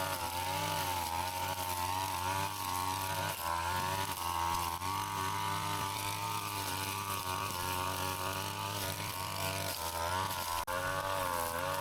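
Brush cutter engine running at high speed, its pitch wavering up and down as the load changes while it cuts grass and weeds.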